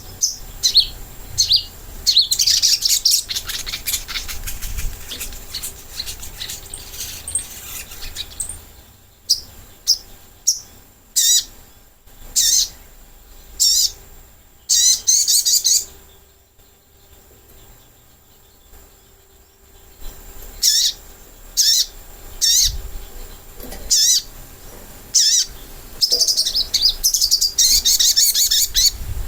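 Sogok ontong songbird calling: short, high, rapidly trilled chirp phrases repeated over and over, with a pause of a few seconds a little past halfway. This is lure song used to draw wild birds of the same kind.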